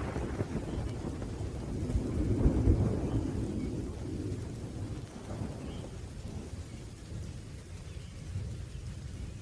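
Rolling thunder over steady rain: a low rumble swells about two seconds in, then slowly dies away.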